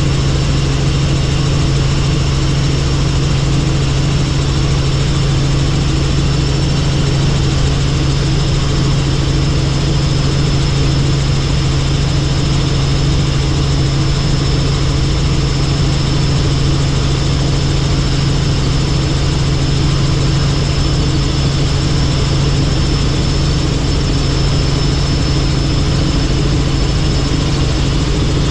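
Helicopter in flight: a loud, steady drone with a thin high whine above it, unchanging throughout.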